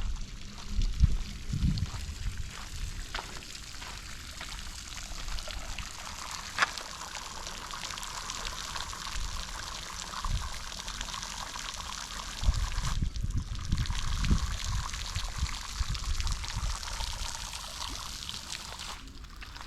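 Running water trickling steadily, with footsteps on a path now and then.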